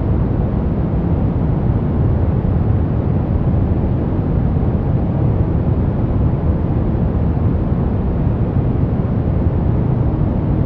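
Steady, unchanging noise of a sleep-aid 'white noise' track, heavier in the low end, so it sounds like a deep, even rush rather than a bright hiss.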